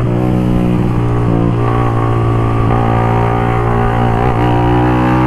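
Suzuki GSX-R 150's single-cylinder engine running through a full-system aftermarket exhaust while riding, holding steady revs with a slight waver about four seconds in.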